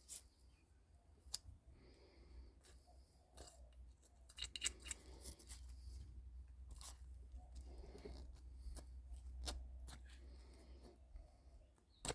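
Faint, irregular snipping, scraping and clicking of hand work on a microwave oven transformer's copper windings, stripping off the paper insulation, over a steady low hum.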